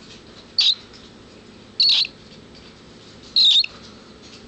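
A cockatiel gives three short, high-pitched chirping calls, spaced about a second and a half apart, while having its head rubbed.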